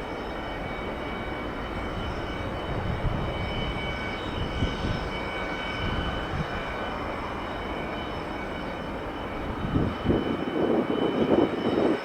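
Jet airliner engines running: a steady rumble with high whining tones, turning into a louder, rougher rumble about ten seconds in.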